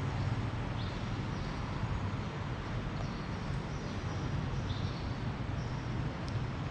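Steady low rumble of railway-station background noise, with a few short, faint high chirps.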